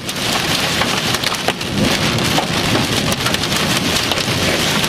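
Heavy rain pelting a car, a dense crackling patter of drops over a low rumble.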